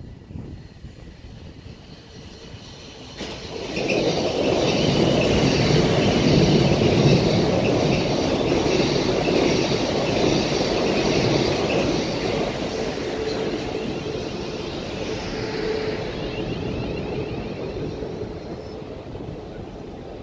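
South Western Railway electric multiple-unit trains passing through the station on both tracks. A loud rumble of wheels on rail with a high electric whine rises sharply about three seconds in, then fades slowly over the second half.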